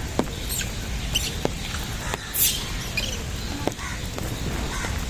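Rain pattering, with sharp drips and several short high squeaks, the loudest about two and a half seconds in.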